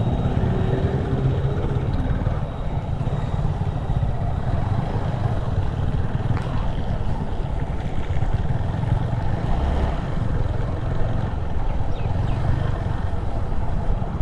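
TVS Apache 4V motorcycle riding at steady speed: the engine running under a steady low rumble of wind and road noise on the rider's microphone.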